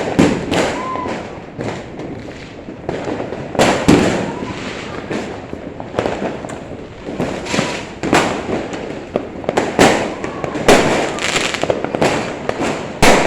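New Year fireworks going off repeatedly: irregular sharp bangs with crackling in between, the loudest bangs about four seconds in and near the end.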